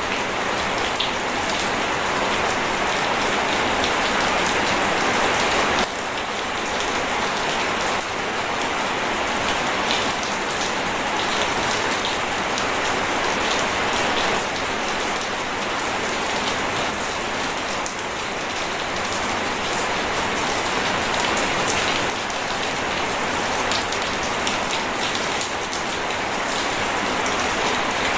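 Steady, dense rainfall, with a faint patter of drops throughout and no thunder.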